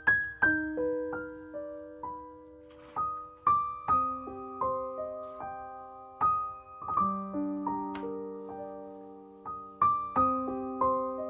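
Background music: a gentle solo piano melody with chords, notes struck a few times a second and left to ring and fade.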